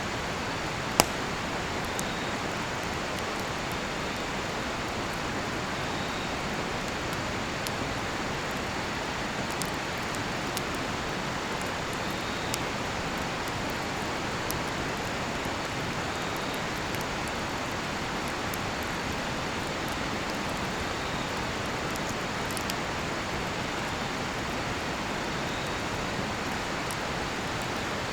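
Steady rush of a nearby river, with scattered sharp crackles and pops from a burning cedar-wood campfire, one loud pop about a second in. Faint cricket chirps repeat every couple of seconds.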